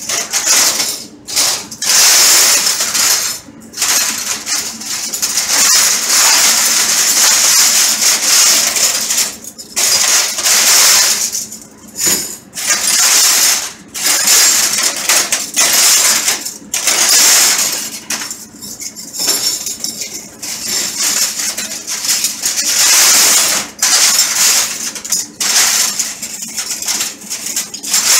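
Stainless steel cutlery clattering and jingling as handfuls of forks and spoons are scraped and scooped off a steel counter and dropped into cutlery cylinders in a dish rack. The rattling comes in near-continuous runs broken by brief pauses.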